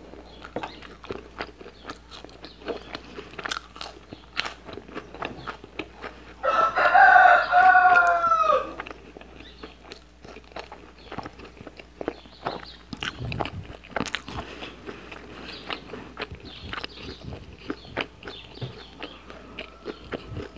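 Close-up chewing and biting of chicken and rice, with wet mouth clicks throughout. About six seconds in, a rooster crows once, about two seconds long and louder than the chewing.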